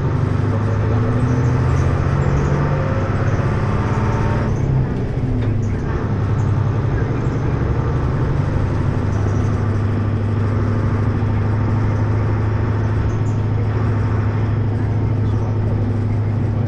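Hino U-HT2MLAA city bus running under way, heard from on board as a steady low engine drone. The note shifts and dips briefly about four and a half seconds in, then holds steady. The bus is one the recordist says is tending toward abnormal noises.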